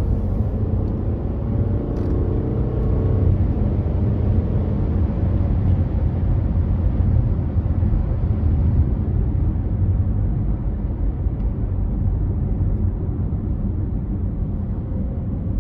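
Steady low road and tyre rumble of a car driving on a freeway, heard from inside the cabin, with a faint wavering hum in the first few seconds.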